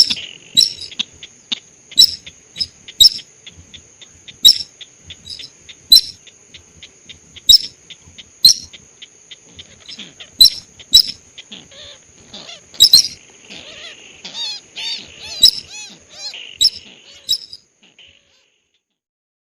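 Lure-call recording of the sintar sawah rice-field bird: sharp, high chirps repeating irregularly about once a second over a steady high-pitched whine. It all cuts off suddenly near the end.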